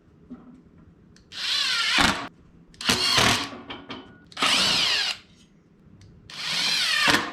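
Power drill run in four short bursts, its motor pitch rising and falling within each burst.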